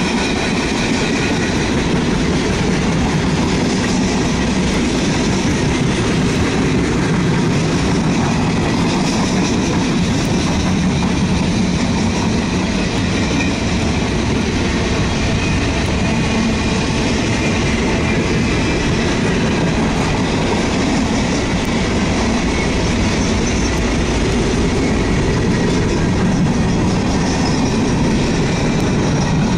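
A freight train's cars rolling past, the steady running noise of steel wheels on the rails.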